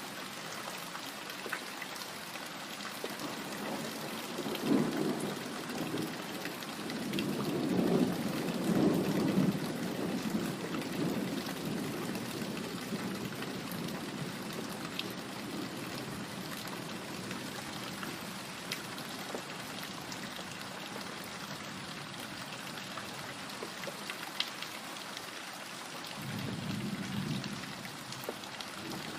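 Steady rain falling, with thunder rumbling about four seconds in, building and fading over several seconds, and a shorter rumble near the end.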